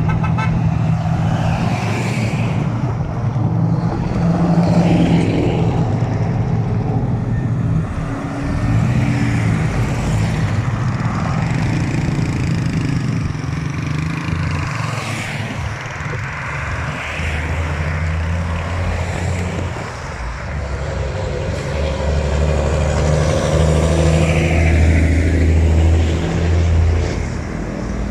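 Engines of trucks and cars in a caravan running and passing, with a heavier low engine drone strongest in the second half.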